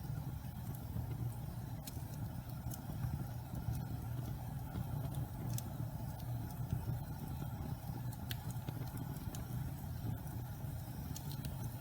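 Wood fire burning in a fireplace: a steady low rumble of the flames with scattered sharp crackles and pops from the burning pine logs.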